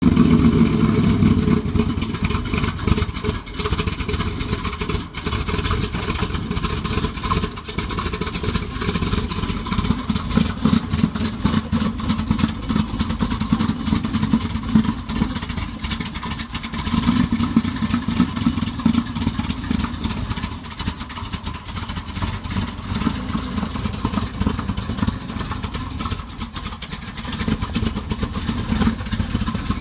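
Rebuilt 340 cubic-inch V8 of a 1970 Dodge Challenger T/A, fitted with a Comp Cams Big Mutha Thumpr camshaft and 10.5:1 compression, running through its side-exit exhaust at a lopey, uneven idle as the car rolls slowly. The revs swell a couple of times under light throttle.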